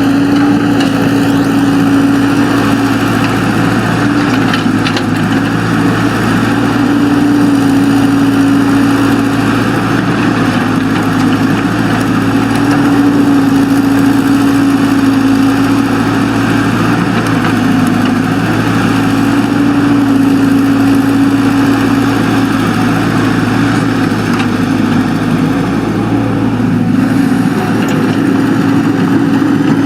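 Excavator's diesel engine running steadily, its note dipping slightly and recovering every few seconds.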